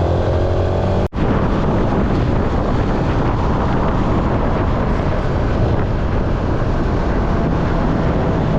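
Steady road and wind noise heard while driving in a car. The noise cuts out for an instant about a second in.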